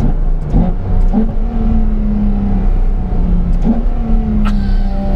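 Ferrari F12tdf's naturally aspirated 6.3-litre V12 running under way, heard from inside the cabin. The revs step up twice, about a second in and again past the middle, and sag slightly in between.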